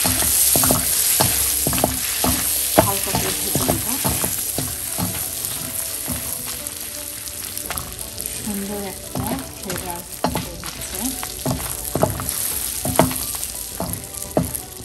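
Whole dried red chillies sizzling in hot oil and melted butter, with a wooden spatula scraping and knocking against the metal pan as they are stirred. The sizzle is strongest at first and eases a little after a few seconds.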